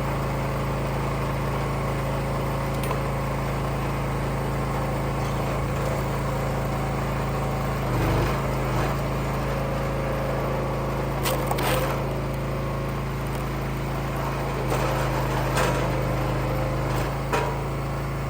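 Engine of a firewood log splitter running steadily, dipping briefly in pitch about eight seconds in, with a few sharp knocks and cracks in the second half.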